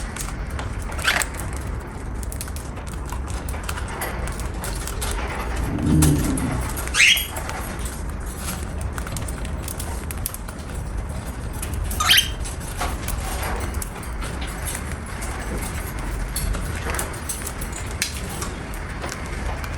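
Pet cockatiel giving a few short, sharp chirps, the loudest about seven and twelve seconds in, over a steady low rumble.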